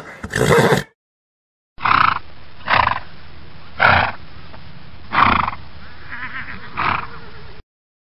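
Horses neighing. A wavering whinny ends in the first second. After a short pause come five short, harsh neighs roughly a second apart over a steady hiss.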